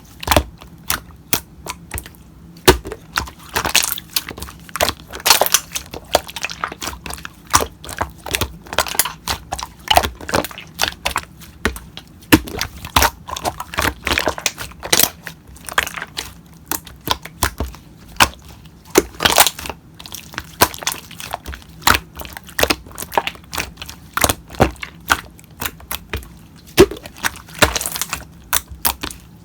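Slime being worked by hand, giving a run of irregular sharp clicks and crackling pops as air pockets burst.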